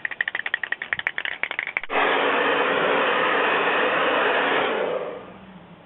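A spray can of clear lacquer shaken, its mixing ball rattling in quick clicks, then sprayed in a steady hiss for about three seconds that fades out near the end.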